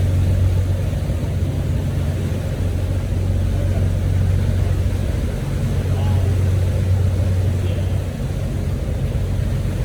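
A boat's outboard engines running steadily at a low drone, trimmed high for shallow water, with wind and water rushing past. The drone weakens briefly twice.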